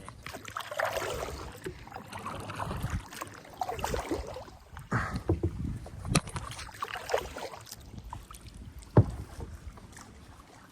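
Kayak paddle strokes dipping and splashing in the water at an uneven pace, with a single sharp knock about nine seconds in.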